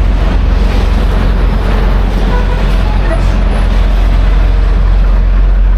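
Semi-truck's diesel engine running with a steady low rumble under broad road and cab noise.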